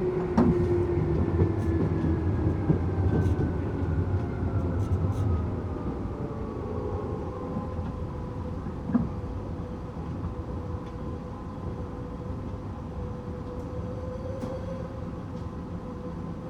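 Tokyu 8500 series electric train with Toyo-built traction motors, heard from inside the car. The motor whine falls in pitch over the first several seconds as the train slows, then settles into a steady hum. Underneath are wheel rumble and a few rail-joint clicks.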